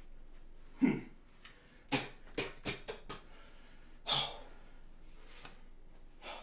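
A man breathing hard in short, irregular gasps and puffs, out of breath from physical exertion.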